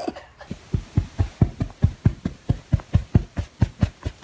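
Rapid, even thumping, about five beats a second, starting about half a second in.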